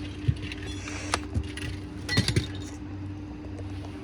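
Small hard objects clinking and knocking as things are handled and taken out of a car's trunk, a handful of separate knocks with a cluster about two seconds in, over a steady low hum.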